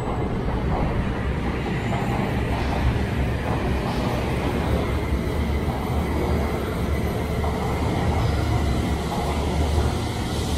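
E5 series Shinkansen bullet train pulling out of a station platform, its cars rolling past with a steady low rumble.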